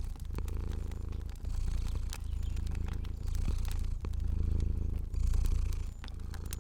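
A cat purring steadily, the purr swelling and breaking about once a second with its breaths. Scattered small pops and crackles of a wood fire sound over it.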